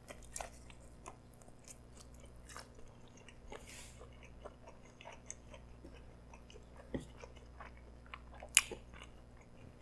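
Close-miked chewing of a mouthful of pretzel-wrapped hot dog: faint, scattered wet mouth clicks, with a sharper click about eight and a half seconds in.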